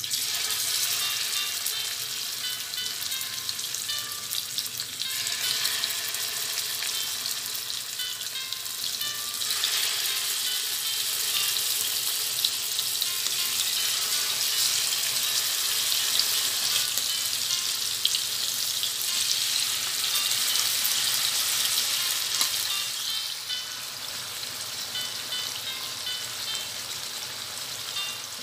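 Spice-marinated goat liver pieces sizzling in hot oil in a non-stick pan. The sizzling starts suddenly as the first pieces go in, grows louder about ten seconds in as more are spooned in and stirred, and eases a little near the end.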